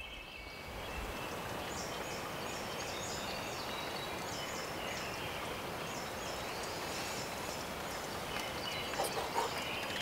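Outdoor ambience of a steady, even hiss, with a bird calling over it in short, high notes repeated several times a second.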